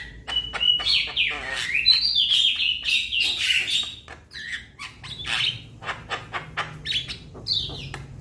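Young Javan myna calling: a quick, continuous mix of harsh clicks and rattles with short whistled notes that slide up and down.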